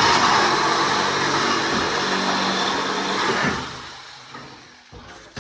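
A motor-driven machine starts abruptly, runs steadily for about three and a half seconds, then winds down and fades out.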